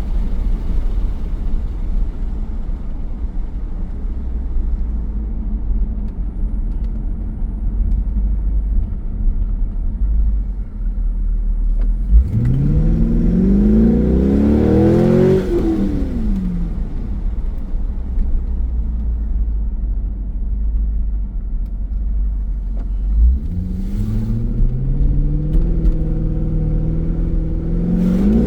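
2002 C5 Corvette's 5.7-litre V8 through a custom axle-back exhaust with Magnaflow mufflers and electric cutout valves, cruising with a steady low rumble. About twelve seconds in it revs up hard, the pitch climbing for about three seconds before dropping off, and it accelerates again twice near the end.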